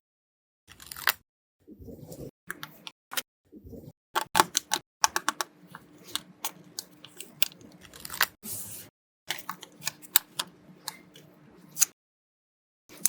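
Paper pieces being handled: a run of sharp taps, clicks and crinkles in short bursts, broken by a few brief dead silences.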